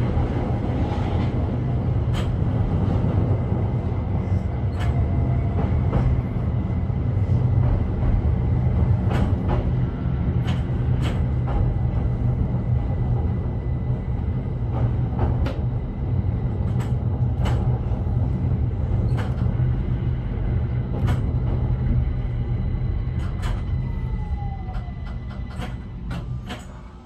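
Keihan 800 series train running noise heard from the driver's cab: a steady low rumble with scattered sharp clicks from the wheels over the track as the train slows into a station. Near the end a falling whine and a faint high steady tone come in, and the noise dies down as the train comes to a stop.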